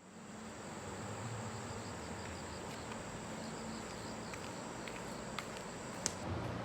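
Insects calling outdoors: a steady, high-pitched buzz with a faster run of evenly repeating chirps over it. The buzz stops shortly before the end, and there are a couple of sharp clicks near the end.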